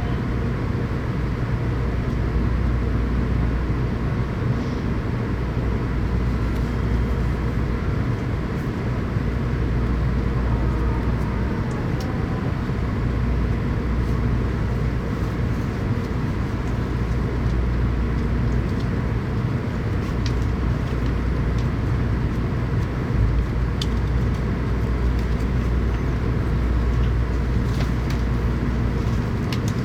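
Steady running noise of a Tokaido Shinkansen train heard from inside the passenger car: a constant low rumble and hum of the train on the rails, with a few faint ticks.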